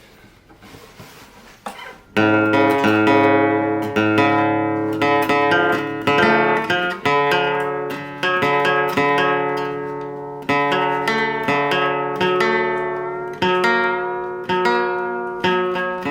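Nylon-string classical guitar played fingerstyle, a run of plucked notes and chords that starts about two seconds in, each note ringing and dying away.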